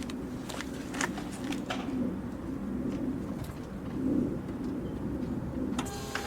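Pigeons cooing, with scattered sharp clicks. A steady electronic tone starts near the end.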